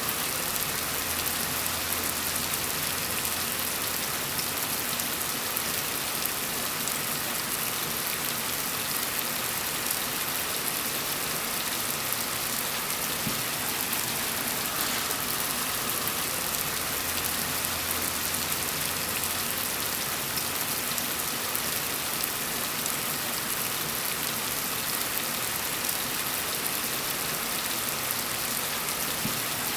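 Gentle rain falling steadily, an even hiss with no breaks.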